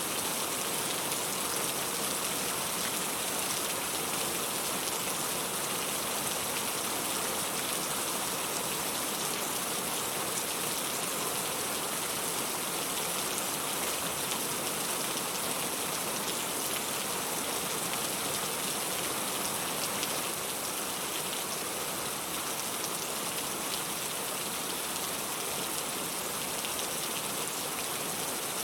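Steady, dense rain falling and pattering on surfaces, easing very slightly about twenty seconds in.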